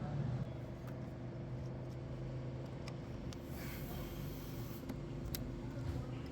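A steady low mechanical hum under a few light clicks, with a brief hiss from about three and a half to nearly five seconds in.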